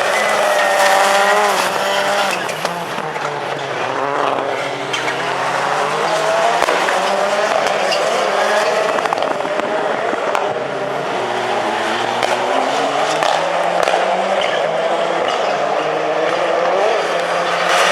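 Several Supercar-class rallycross cars racing, their engines revving up and down so the pitch keeps rising and falling, several engines overlapping.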